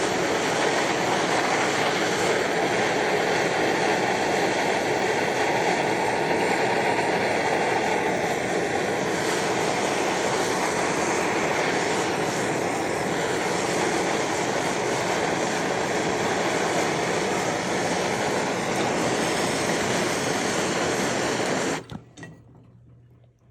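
Metal-melting furnace running with a loud, steady rushing noise, shut off abruptly near the end.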